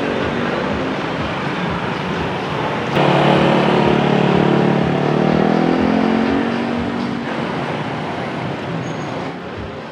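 Street traffic of motorbikes and cars. About three seconds in, a louder engine starts close by with a steady hum, then fades away over the next few seconds as it passes.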